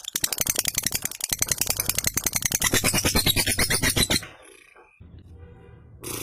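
Lovebird singing ngekek: a long, fast run of repeated high chattering notes. It stops about four seconds in and resumes near the end.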